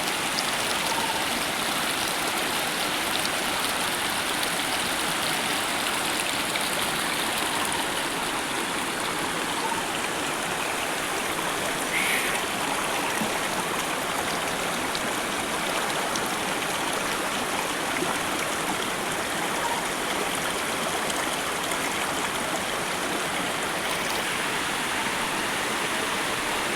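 Steady rush of water tumbling over rocks in a waterfall-fed stream, with one soft knock about halfway through.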